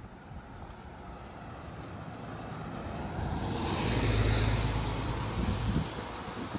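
A car driving past on the road, its tyre and engine noise building to a peak about four seconds in with a low rumble, then fading.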